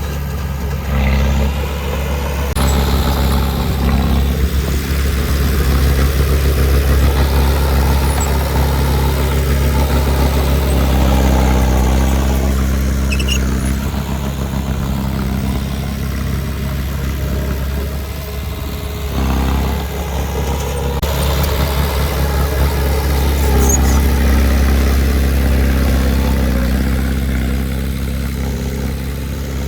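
Heavy earthmoving machine's diesel engine running steadily, swelling and easing a few times as the load changes.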